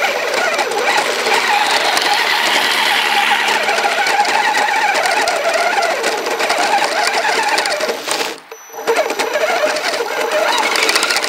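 Kyosho Blizzard RC snow vehicle's motor and chain-driven tracks running, a dense whirring clatter. It cuts out for about half a second near the end, then picks up again.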